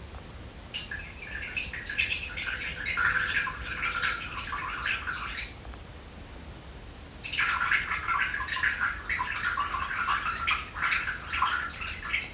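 Birds chirping rapidly in two bouts of about five seconds each, separated by a short pause, over a low steady hum.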